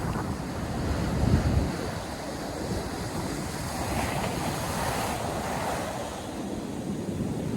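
North Sea surf breaking and washing up the beach, a continuous hiss that swells in the middle, with wind buffeting the microphone, strongest about a second in.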